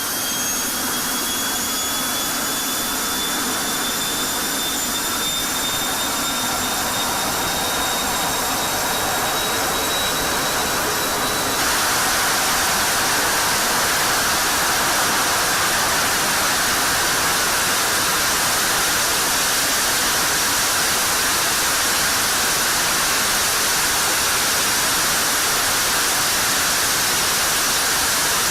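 Jet engine running with a high whine that slowly rises in pitch as it spools up; about eleven seconds in the sound switches suddenly to a louder, steady rushing noise.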